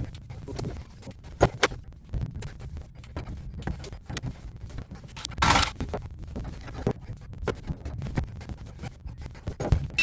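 Scattered clicks, knocks and scrapes of hands and tools working on a water pipe in a cramped crawl space, with a short louder scrape about five and a half seconds in.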